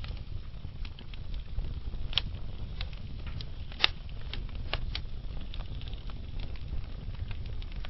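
Wood fire burning logs: a steady low rumble with scattered sharp crackles and pops, the loudest pops about two seconds in and just before four seconds in.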